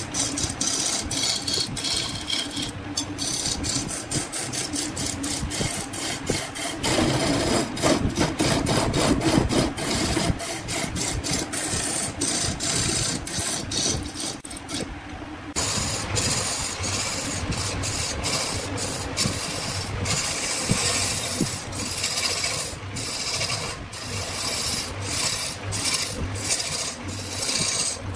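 Wood being turned on a lathe: a cutting tool scraping and rasping against the spinning workpiece, with a stream of sharp ticks. It eases off briefly about fifteen seconds in, then resumes.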